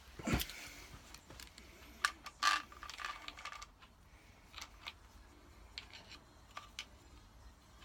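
Metal tools and engine parts being handled: a thump just after the start, then a cluster of metallic clinks with a short ring two to three seconds in, followed by scattered light ticks.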